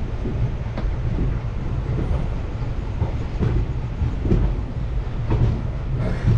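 Passenger train running, heard from inside the coach at an open door or window: a steady low rumble with irregular clicks of the wheels over rail joints.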